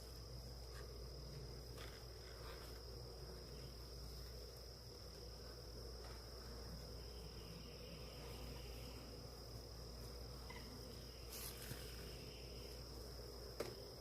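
Faint hum of honeybees at an open hive under a steady high-pitched insect drone, with two faint clicks near the end.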